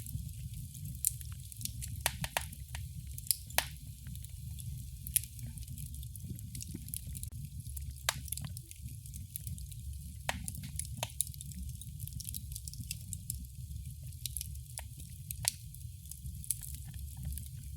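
Wood fire crackling in a fireplace: irregular sharp pops and snaps, several a second with a few louder ones, over a steady low rumble of the flames.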